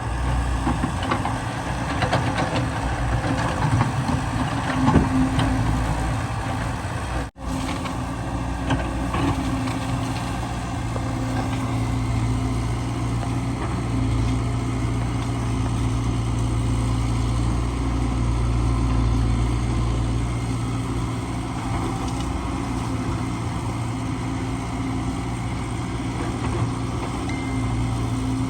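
Excavator's diesel engine running steadily, with a few sharp knocks in the first five seconds. The sound cuts out for an instant about seven seconds in.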